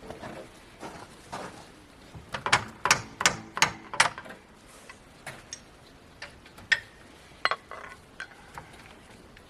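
A felling wedge striking a snowplow mounting pin to drive it out: a quick run of about five ringing metal knocks, then two more a few seconds later.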